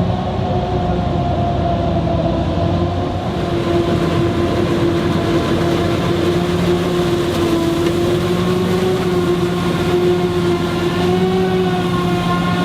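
Claas Jaguar 980 forage harvester running under load, a steady heavy engine drone with a held whine that wavers slightly in pitch.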